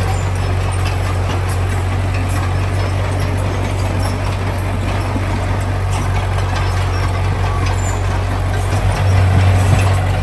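Heavy diesel engine of earthmoving machinery running steadily with a deep hum, briefly louder about nine seconds in.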